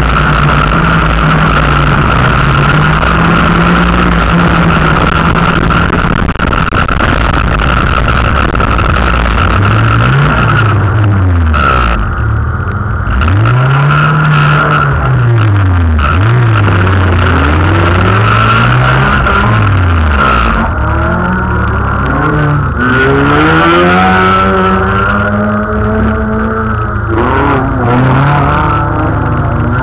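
Autocross car's engine, heard from inside the car, running hard and revving up and down again and again, its pitch climbing and dropping every second or two through the middle.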